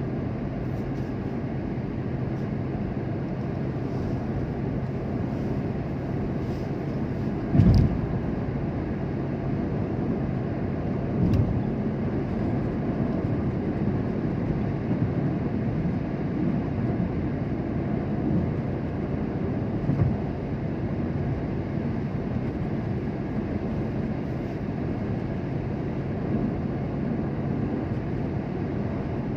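A motor vehicle running with a steady low rumble of engine and road noise, broken by a few thumps, the loudest about eight seconds in.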